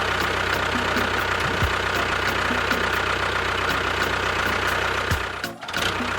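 An engine-like mechanical sound runs steadily, with a fast regular ticking, and dips briefly about five and a half seconds in.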